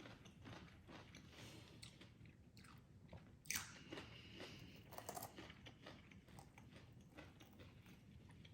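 A person chewing a mouthful of salad with crunchy raw onion, faint soft crunches with a louder crunch about three and a half seconds in.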